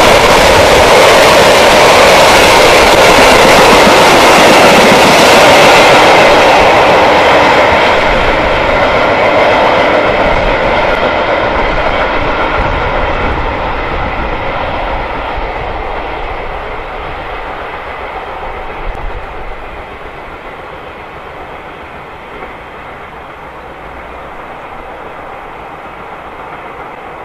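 Loaded bogie timber wagons of a freight train rolling past close at speed: loud, steady wheel-on-rail noise for about six seconds, then fading gradually over the next fifteen seconds or so as the train draws away.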